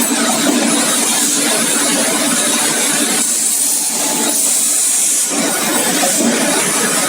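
Servo-driven busbar processing machine running, a steady hiss over a low hum. Its sound changes in stages: it thins out about three seconds in and fills back up a little after five seconds.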